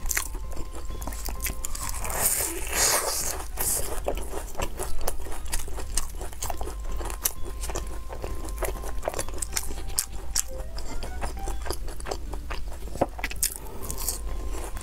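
Close-up chewing and crunching of crispy smiley-face potato cakes, with many sharp crisp clicks as they are bitten and chewed, and a louder crunch about two to four seconds in.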